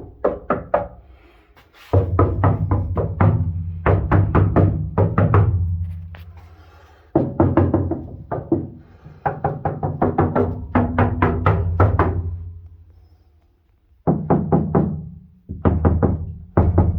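Rapid knocking on the sheet-metal panels of a Ford F-100 pickup cab, in several bursts of quick blows, each burst ringing away over a second or two. It is a test of how well the spray-on Lizardskin sound deadening damps the cab's tinny ring.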